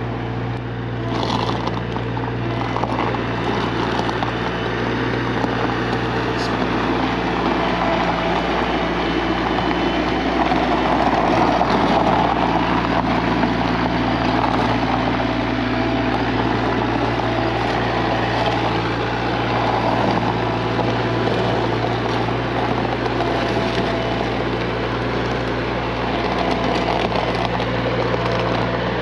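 Diesel skid steer loader running as it is driven, its engine a steady drone, with louder working noise from the machine swelling for a few seconds in the middle.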